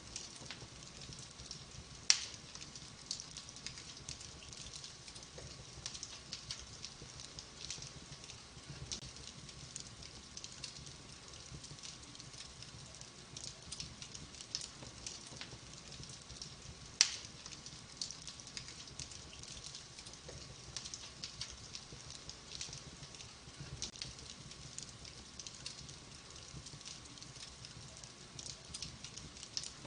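Wood fire burning in a fireplace, crackling with many small ticks, and two sharp louder pops: one about two seconds in and one a little past halfway.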